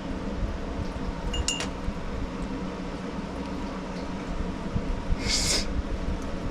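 Light metallic clinks as small carburetor parts are handled and refitted, over a steady background hum, with a short hiss a little after five seconds in.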